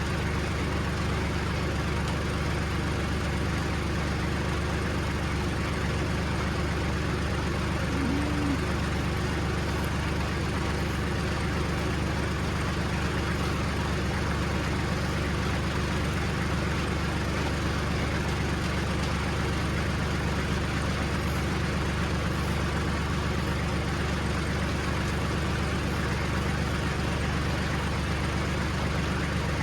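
Vehicle engine running steadily at an unchanging speed, a constant low drone. A short tone sounds once about eight seconds in.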